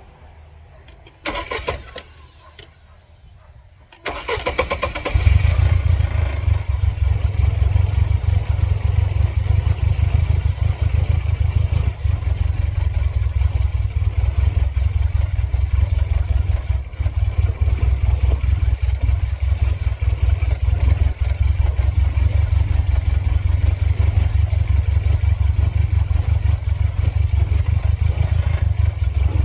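1999 Mercedes-Benz C230 Kompressor's supercharged four-cylinder engine cranking and catching about four seconds in, then idling steadily; the engine has a fault that makes it stall under load and flash its check engine light. A short burst of noise comes just over a second in.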